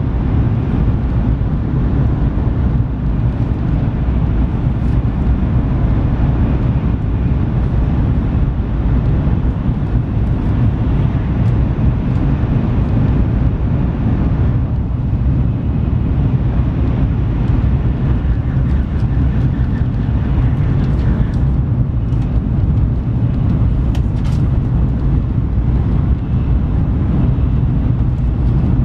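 Cabin noise of an N700S Shinkansen running at high speed: a steady low rumble with a hiss above it. Its character shifts slightly about halfway through as the train leaves a tunnel into the open, with a few faint clicks later on.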